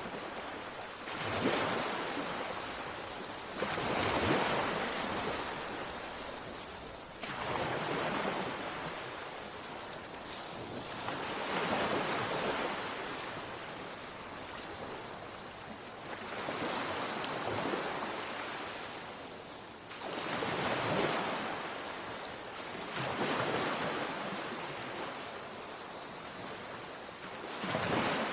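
Sea waves washing onto the shore, a steady rush that swells and falls back in slow surges every few seconds.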